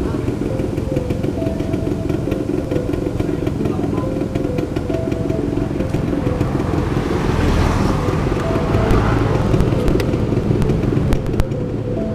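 Two-stroke motorcycle engine with an aftermarket racing exhaust, running steadily, with a brief rise about seven seconds in.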